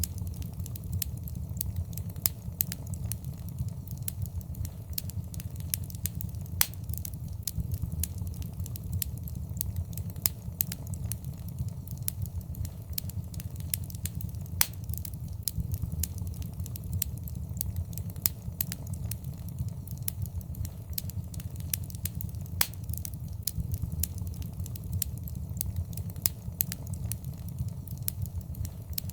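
Fireplace fire crackling: a steady low rumble of burning with frequent sharp crackles and pops, a few of them louder snaps.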